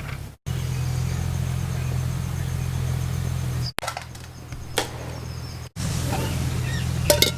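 A steady low hum made of several even tones, broken off by edits, with a few short sharp clinks near the middle and just before the end.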